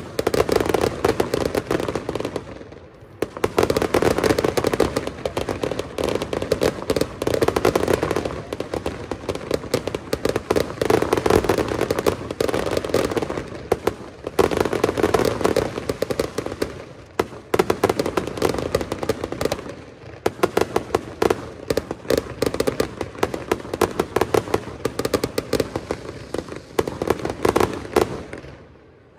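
Fireworks display: dense volleys of rapid bangs and crackling, coming in waves with short lulls between them.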